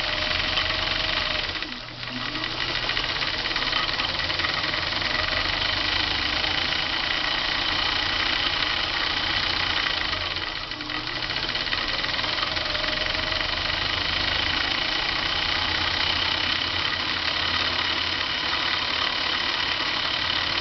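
Old Kenmore sewing machine's electric motor running steadily, driving the bobbin winder as thread winds onto the bobbin, with the handwheel disengaged so the needle does not move. The sound dips briefly about two seconds in and again around ten seconds.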